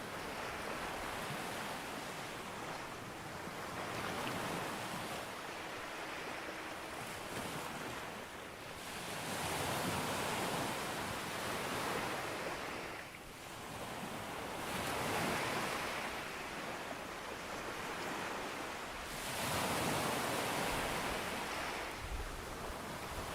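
Ocean waves breaking on a beach. The surf swells and falls back about every four to five seconds.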